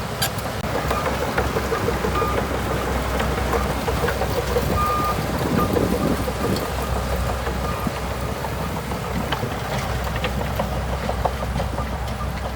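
Bulldozer's diesel engine running steadily at work, with a dense rattle of small clanks and knocks and a few short high beeps.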